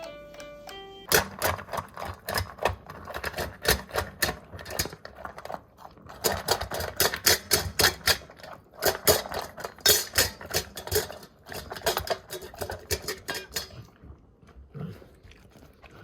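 A couple of electronic keyboard notes, then a long, fast, irregular clatter of sharp clicks and knocks that stops shortly before the end.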